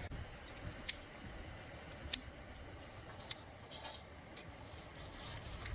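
A few sharp clicks, roughly one a second, over a faint steady hiss.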